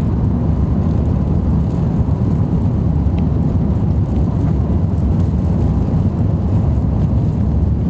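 Jet airliner cabin noise: a steady, loud low rumble of the engines and air rushing past the fuselage, heard from inside the cabin.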